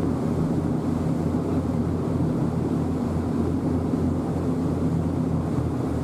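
Passenger boat's engine running steadily, a low even drone.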